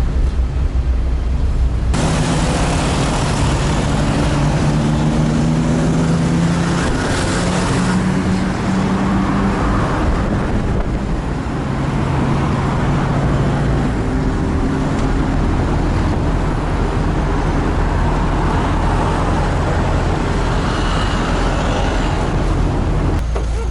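Engine and road noise heard while riding in a motor vehicle. The engine's pitch rises and falls as it speeds up and slows, over a steady rushing noise and low rumble.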